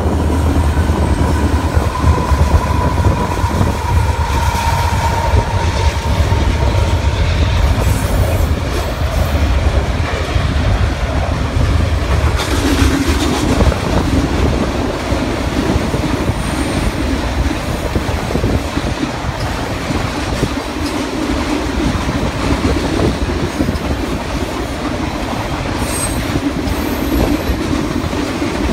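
Union Pacific diesel locomotives pass close by with a heavy, deep engine rumble over the first several seconds. A long string of autorack freight cars then rolls past across a short bridge, with a steady rattle and clack of wheels and a couple of brief high wheel squeals.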